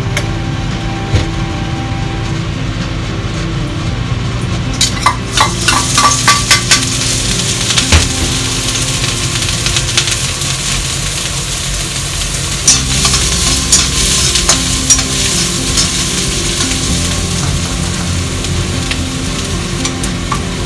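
Minced carrot sizzling in hot rice oil in a wok, the sizzle starting loudly about five seconds in as the food goes into the pan. A spatula clicks and scrapes against the pan in quick flurries while it is stir-fried. Soft background music plays throughout.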